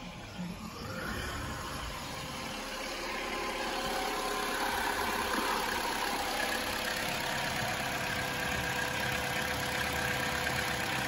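Vauxhall Tigra 1.4's four-cylinder petrol engine idling steadily just after start-up, with a newly fitted alternator. It grows slightly louder from about three seconds in.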